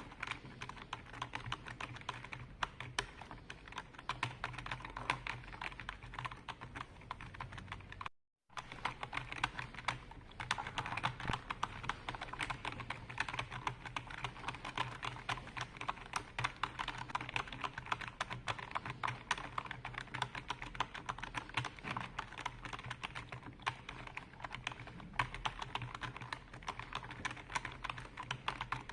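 Computer keyboard being typed on continuously in fast, dense runs of key clicks, with a brief complete dropout about eight seconds in.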